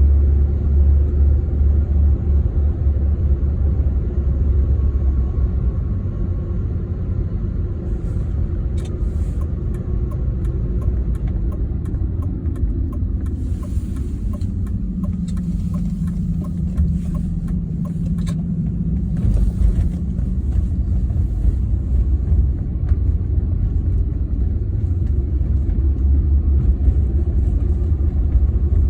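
Worn driveshaft center support bearing on a BMW E36 making a loud, low rumble as the car drives. The noise is the sign of the failed bearing. It eases off in the middle and builds again toward the end.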